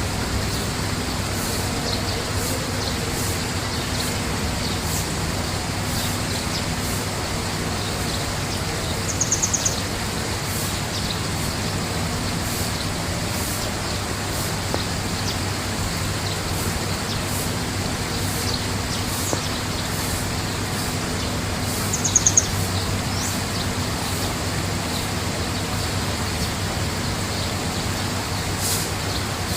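Small birds chirping, with short high calls scattered all through and a brief rapid high trill twice, about 9 and 22 seconds in. Under them runs a steady rushing background with a low hum.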